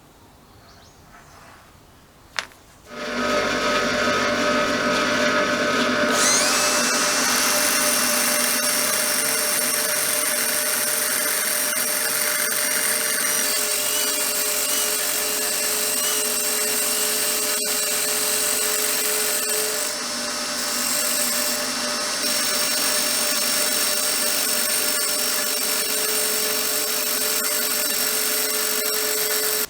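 Electric power tool, such as a drill or grinder, clicked on and running steadily with a high whine. It steps up in pitch a few seconds after starting, dips slightly briefly near the end, and stops abruptly.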